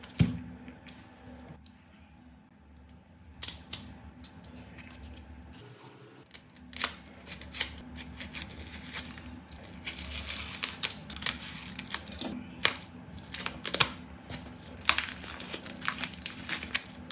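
Irregular sharp clicks, crackles and small scrapes of hard glass and plastic parts being handled and worked on, which fits a cracked smartphone being taken apart. They are sparse at first and come thicker in the second half.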